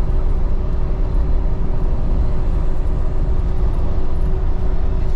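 Steady low rumble of a vehicle on the move, with a constant hum running through it.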